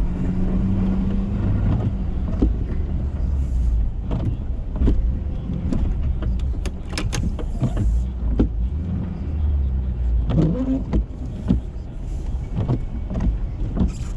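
Ford F-350 pickup's engine running steadily as it pushes snow with a Boss plow, with scattered sharp knocks and clunks throughout.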